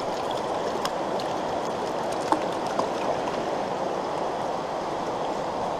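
Stream water rushing steadily, with a few faint clicks and taps.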